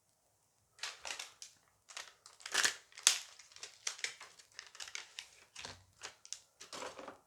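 Crinkling and crumpling of a Dice Masters booster pack's wrapper being torn open and handled, a quick, irregular run of crackles starting about a second in.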